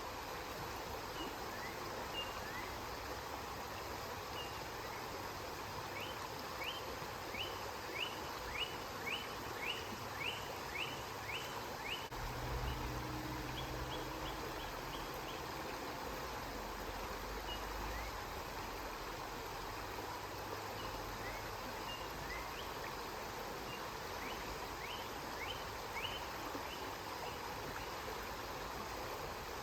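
Steady rush of flowing river water. Short high chirps sound over it: a quick run of about a dozen notes, about two a second, from about six to twelve seconds in, and scattered single chirps elsewhere. A brief low rumble comes in just after the run of chirps.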